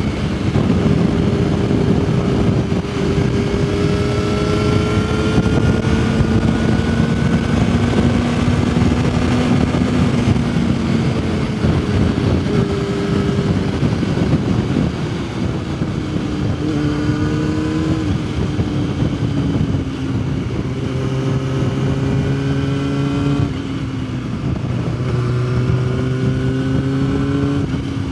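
Yamaha R6's inline-four engine running while ridden: fairly steady speed through the first half, then several runs of rising pitch, each broken by a drop at an upshift, in the second half. Steady wind noise runs under the engine.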